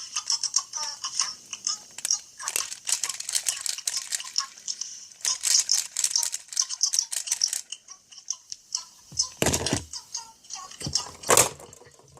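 Small hard plastic toy pieces rattling and clattering in bursts as they are handled, with a couple of heavier knocks near the end.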